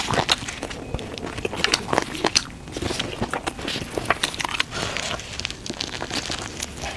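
Close-miked eating: biting and chewing, with many short crisp clicks throughout.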